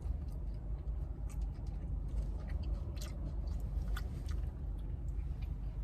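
Someone chewing food, with scattered small mouth clicks over a steady low hum.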